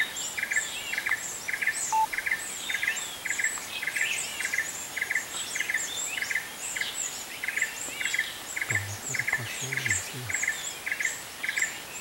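Forest birds chirping and calling in quick, varied notes, over an even pulsing chirp that repeats about twice a second.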